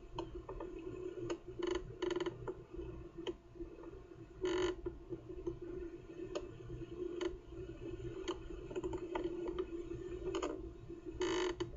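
Wind rumbling on the nest-camera microphone, with irregular clicks and a few short scraping knocks.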